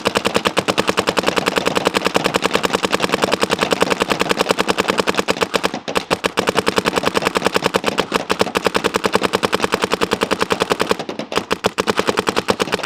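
Shocker ERA electronic paintball marker firing continuous rapid fire, about a dozen shots a second, with brief pauses about six seconds and about eleven seconds in. Its compressed-air tank is down to under 1,000 psi, near the end of its air.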